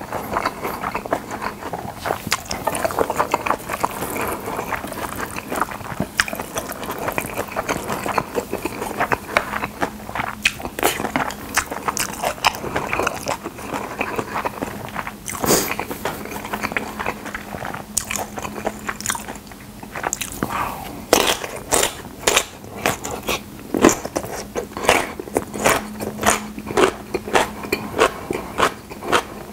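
Close-miked chewing of chewy jjolmyeon noodles with wet mouth sounds. After the middle, bites of pickled yellow radish (danmuji) add many sharp, crisp crunches in quick succession.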